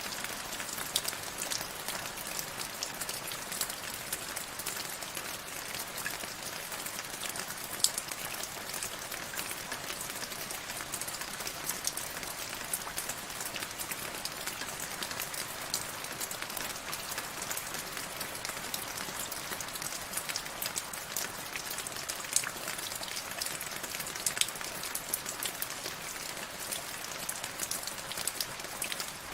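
Steady rain falling, a constant hiss with many separate drops ticking sharply on a surface.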